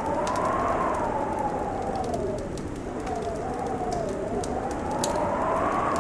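Howling wind, its whistling tone slowly rising and falling over a few seconds, with a wood fire crackling in sparse sharp pops.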